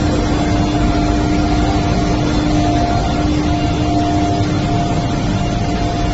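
KGPS medium-frequency induction melting furnace and its equipment running: a loud, steady machine hum with two steady tones running through it.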